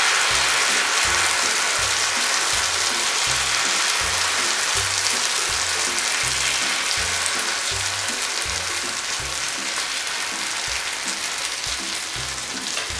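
Batter frying in hot oil on a tawa griddle: a steady sizzling hiss that slowly grows quieter. Background music with a steady low beat plays underneath.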